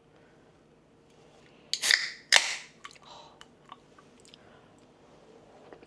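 Close-up eating sounds: two loud crunchy bites about two seconds in, then softer chewing with a few small clicks.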